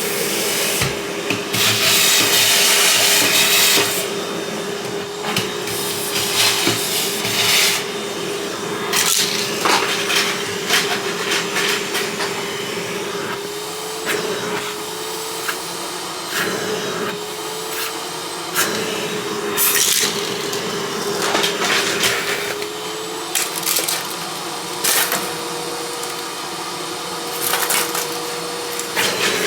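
Vacuum cleaner running, its motor hum rising in pitch several times in the second half, with a louder stretch of suction hiss a second or so in. Short bursts of hard clattering and rattling sound over it throughout.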